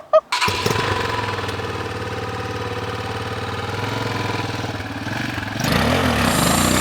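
Stels Flex 250 motorcycle's single-cylinder engine idling steadily, cutting in suddenly about half a second in. Near the end it gets louder and rougher, with a short swoop in pitch.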